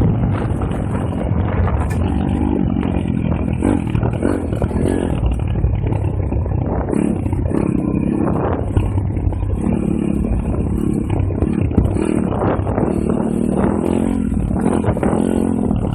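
Small four-stroke pit bike engine running under way, its revs rising and falling repeatedly with the throttle.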